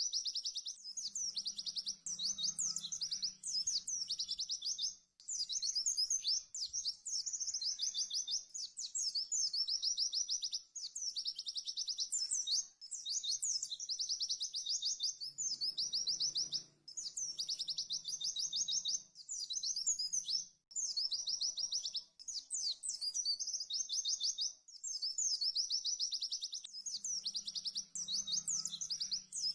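White-eye (pleci) singing its fast 'tembakan' song: rapid, high, chattering trilled phrases a couple of seconds long, repeated one after another with only brief gaps.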